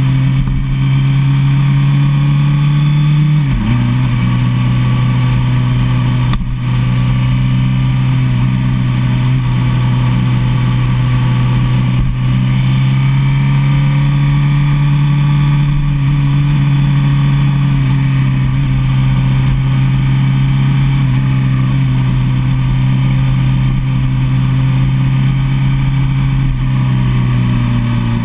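Sport motorcycle engine running steadily at highway speed, heard from the bike. About three and a half seconds in, the engine pitch briefly dips and then comes back up.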